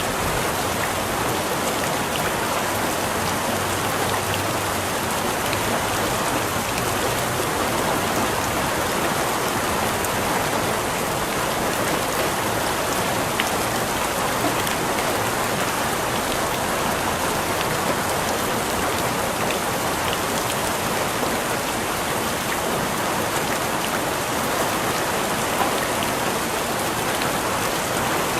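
Steady rain falling on a surface, an even, constant patter with a few small drop ticks.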